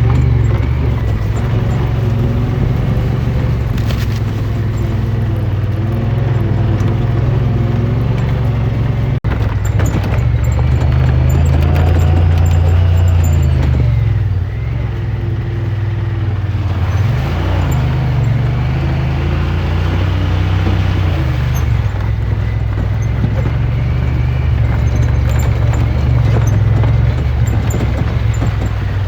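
Side-by-side UTV engine running under way on a trail, its pitch rising and falling as the throttle and speed change.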